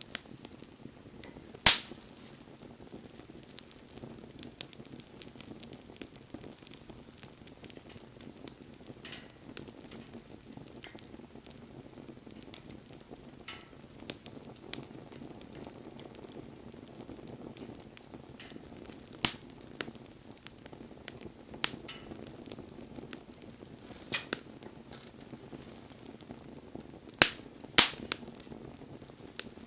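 Wood campfire burning with a low, steady rushing crackle, and sharp pops from the burning wood about six times. The loudest pop comes about two seconds in, and two come in quick succession near the end.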